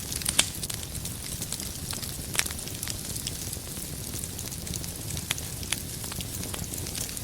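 Wood fire burning in a fireplace: a steady low rumble of flames with scattered sharp crackles and pops from the burning logs. The loudest pops come just after the start and about two and a half seconds in.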